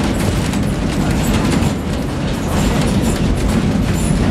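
Passenger train running on the rails, heard from inside the carriage: a steady low rumble with irregular clicks and clacks from the wheels and the car.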